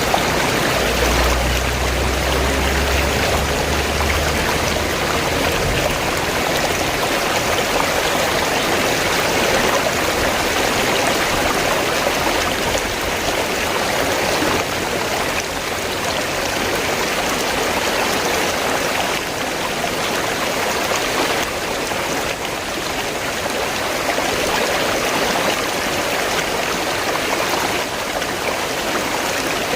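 River water flowing in a steady, continuous rush. A low rumble sits underneath for the first few seconds.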